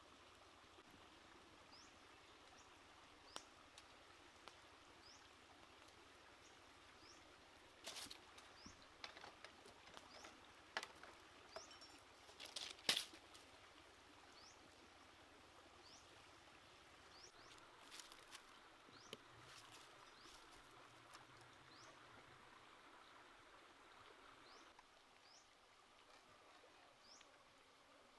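Quiet outdoor ambience: a bird repeats a short, high, rising chirp every second or two. Scattered light taps and clicks cluster between about a quarter and half of the way in, with the loudest single click near the middle.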